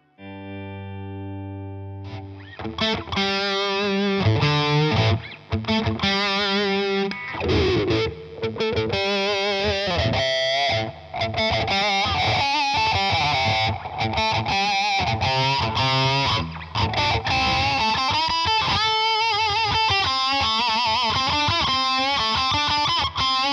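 Electric guitar played through a Hotone Soul Press wah pedal. A chord rings for the first two seconds, then distorted riffs and lead lines follow, their tone sweeping up and down.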